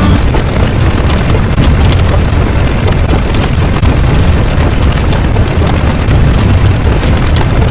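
Loud, steady low rumbling roar that cuts in sharply where a short piece of music stops.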